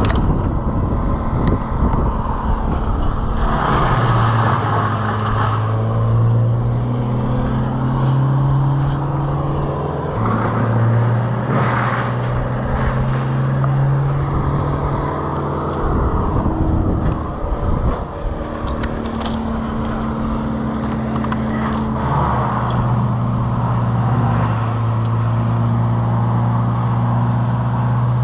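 An engine running steadily, its pitch holding for several seconds at a time and briefly dropping away a few times.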